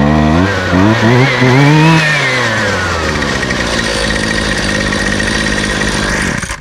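Husqvarna string trimmer engine revving up and back down over the first three seconds, then running steadily until it cuts off near the end. The piston and cylinder are scratched, which might cost it a little compression, though it seems to run okay.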